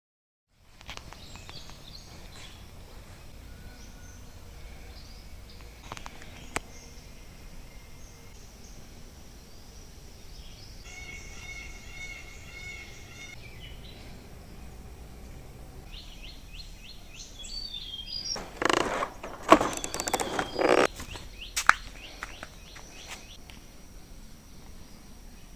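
Outdoor ambience with birds chirping now and then, including a run of repeated calls midway and quick falling chirps later. About three-quarters of the way in comes a louder burst of sound lasting a couple of seconds.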